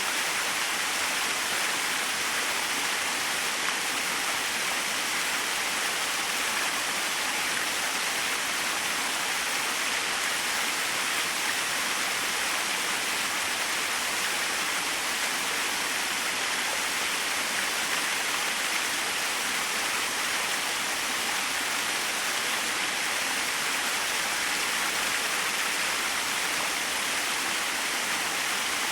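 Small waterfall splashing steadily, an even, unbroken rush of falling water.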